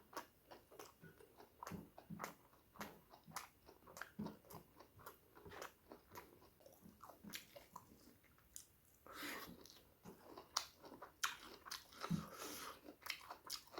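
Close-miked chewing of food: wet mouth clicks and smacks at an uneven pace with some crunches, easing off briefly just past the middle.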